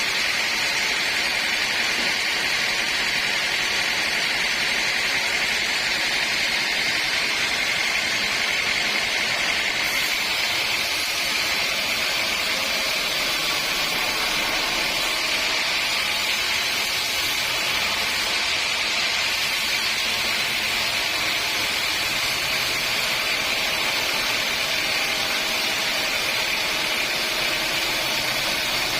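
Sawmill saw running steadily: a constant hissing whine with a high tone that shifts slightly about ten seconds in.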